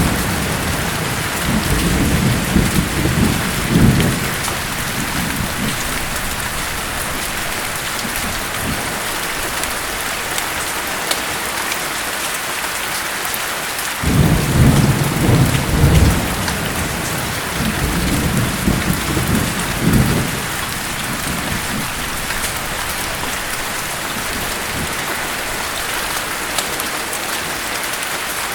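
Steady rain hissing, with low rolling thunder rumbling twice: once in the first few seconds and again from about 14 to 20 seconds in.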